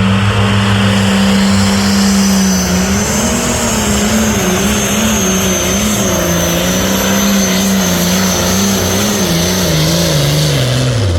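Pro stock pulling tractor's turbocharged diesel engine running flat out as it pulls the sled, with a steady high whistle over the engine note. The engine pitch wavers as it works and drops steeply near the end as the tractor slows under the load.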